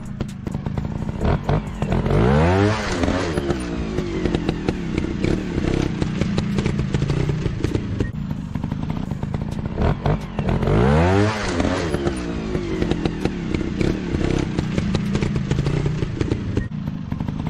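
Motorcycle engine running, revving up sharply twice with a rising whine, over a steady clattering rumble.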